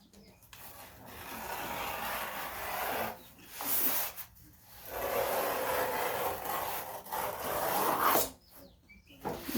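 A tool dragged hard along cardboard, scoring fold lines: a few long scraping strokes with short pauses between them.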